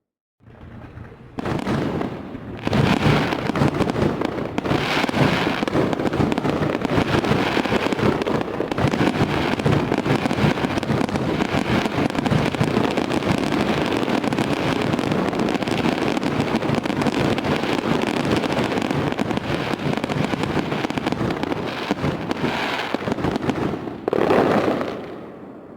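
Fireworks going off in a dense, continuous barrage of overlapping bangs and crackling. It builds up in the first couple of seconds, ends with one last loud burst, and then fades away.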